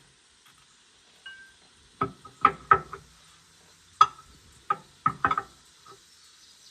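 A run of about seven irregular metal clanks and clinks, with a short ring to each, from tools or metal parts being handled during repair work on a skid steer.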